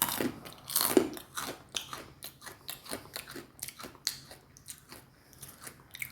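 A person chewing crunchy food close to the microphone: a steady run of crunches several times a second, loudest around the first second.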